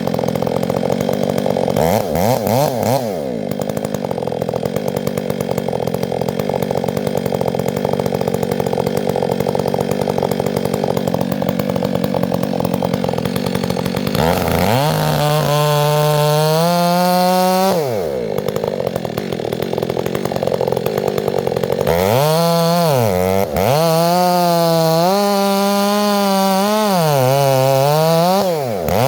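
Gas chainsaw running steady at a low speed, then revved hard twice, about 14 seconds in and again about 22 seconds in. During the second run the pitch wavers up and down.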